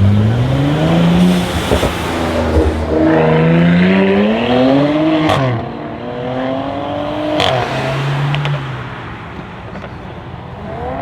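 Brabus-modified Mercedes-AMG GLE 43's twin-turbo V6 accelerating hard: the engine pitch climbs, drops at a gear change about a second and a half in, then climbs again until a sharp exhaust crack about five seconds in. A second crack follows a couple of seconds later as the sound fades.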